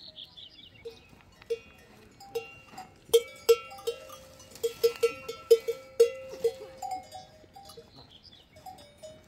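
Several livestock bells clanking irregularly at different pitches as the animals move. The clanking is busiest in the middle and thins out toward the end.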